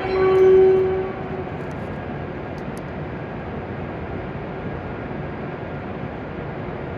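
A Shinkansen horn on an E7-series train holds one steady note for about a second, then cuts off. A steady rumble of train and station noise follows.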